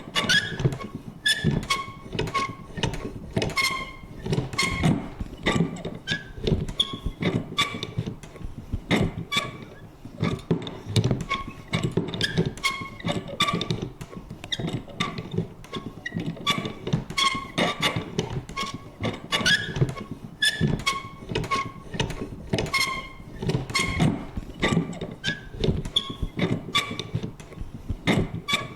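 Vintage paper punch worked over and over: a steady stream of clunks, about two to three a second, many with a short, high creak from the mechanism.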